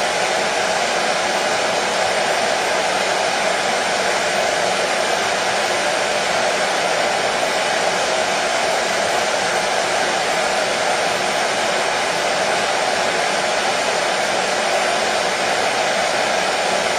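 Hair dryer running steadily: an even rush of fan and airflow that does not change, loudest in the middle of the range.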